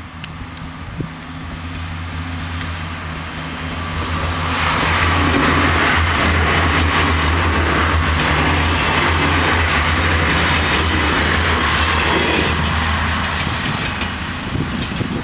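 A TER diesel multiple-unit train passing over a level crossing. Its engine hum is heard approaching, then the wheel and rail noise grows loud from about four seconds in, with a thin high whine over it. It holds for about eight seconds and fades as the train moves away.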